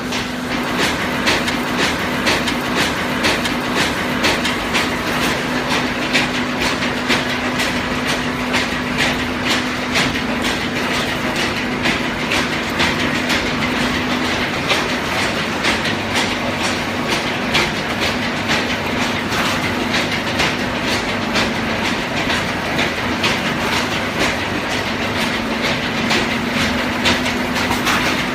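HPAC60 continuous full-automatic horizontal baler running: a steady low hum under a dense, irregular clatter.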